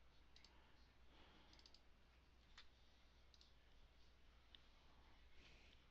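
Near silence with a few faint, irregularly spaced clicks of computer mouse buttons.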